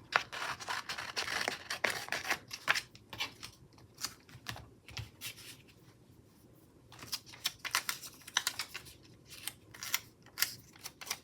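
Paper sticker sheets and stickers being handled on a planner page: clusters of small crackling clicks and rustles, busy at first, quieter for a few seconds in the middle, then busy again.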